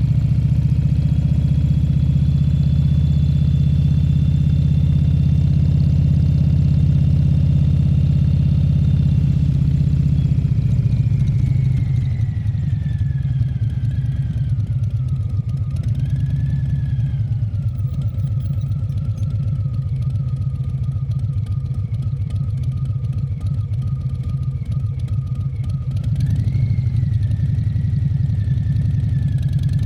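Harley-Davidson Fat Bob 114's Milwaukee-Eight 114 V-twin running under way. It pulls strongly at first, then the throttle eases about a third of the way in and the bike slows, with a whine falling in pitch. It runs lighter and steady until the engine picks up again near the end.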